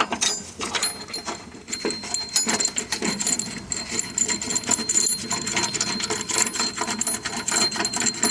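Rapid, fairly regular metallic clicking of a ratchet wrench as the new lawn mower blade bolt is run in and tightened.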